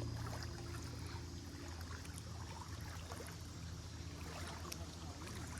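Running water trickling and splashing, over a steady low hum.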